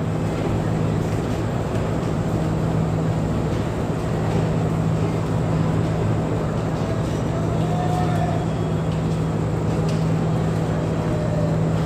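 Diesel train engine running steadily, a constant low hum over a wash of noise.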